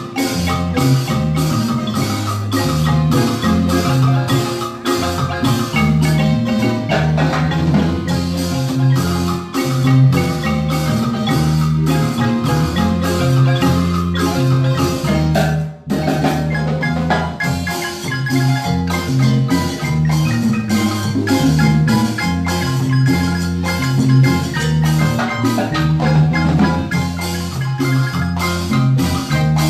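Marimba ensemble playing a lively piece, with fast rolling mallet strikes on the upper keys over a steady low bass line. The music drops out for a moment about halfway through, then carries on.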